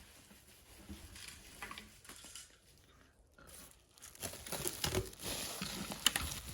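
Packing material crinkling and rustling as an item is unwrapped and handled, with scattered light clicks and knocks. It grows louder about four seconds in.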